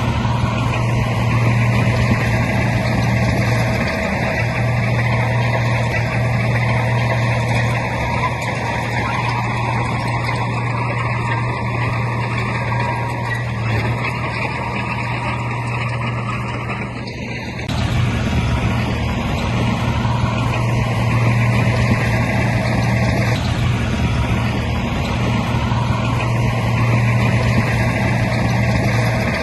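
Heavy diesel earthmoving machinery running steadily under load, a deep engine drone with a hiss of mechanical noise above it. It dips briefly about two-thirds of the way through, then carries on as before.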